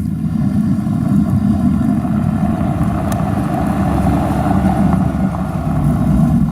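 Car engine running steadily at low revs, a deep rumble with no sharp revving.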